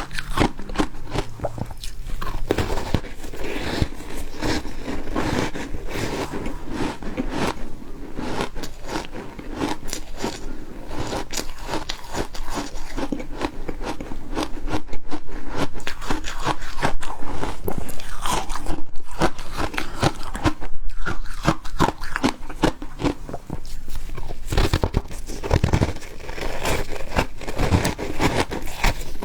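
Refrozen ice being bitten and chewed up close, a dense, continuous run of crunches that grows a little louder in the middle stretch.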